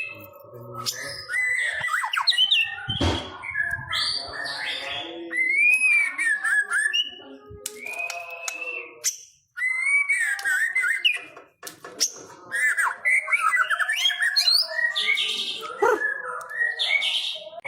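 White-rumped shama (murai batu) singing a long, varied song of clear whistles, rising and falling glides and quick chattering notes, with two short pauses about halfway through.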